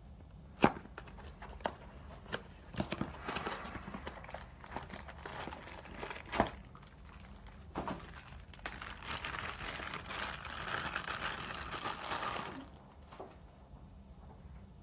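Hands working on a projector: a series of sharp plastic clicks and knocks, then about four seconds of rustling or scraping that stops suddenly.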